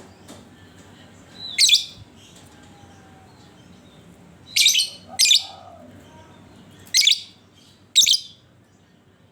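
Lovebird giving five short, shrill calls, spaced one to three seconds apart, over a faint low hum.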